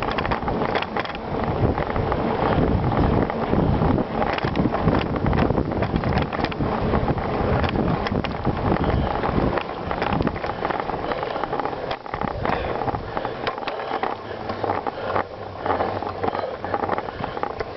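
Riding a bicycle: wind buffeting the microphone over steady tyre noise, with frequent clicks and rattles from the bike.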